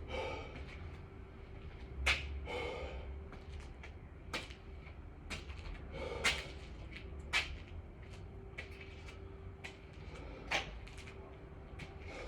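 A person breathing hard after exercise, with heavy breaths near the start and around two and six seconds in, and about five sharp knocks scattered through, the loudest near two seconds in. A faint steady hum runs underneath.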